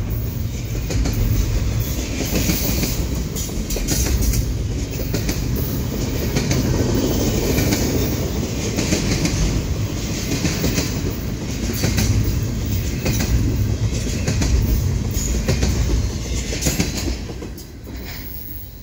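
Double-stack container train cars rolling past: a steady rumble with repeated clacks of wheels over the rail. The sound falls away quickly as the last car goes by near the end.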